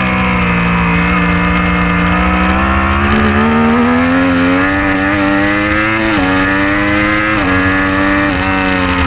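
Superbike engine accelerating hard, its pitch climbing steadily, then dropping sharply three times in quick succession: upshifts about six, seven and a half, and eight and a half seconds in.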